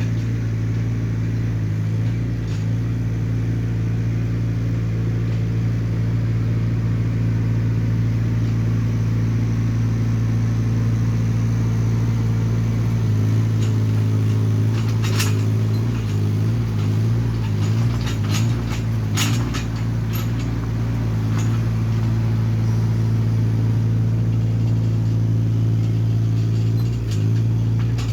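Hyundai mini excavator's diesel engine running steadily, its note wavering for a few seconds near the middle, where several sharp knocks sound.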